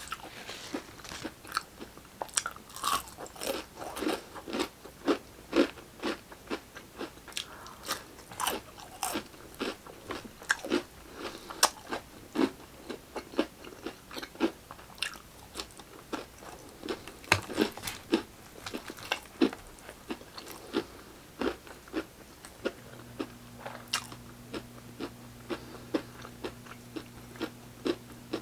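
Close-miked eating: crunching bites and chewing of crispy fried chicken, a dense irregular run of crisp crunches and mouth clicks. A low steady hum comes in near the end.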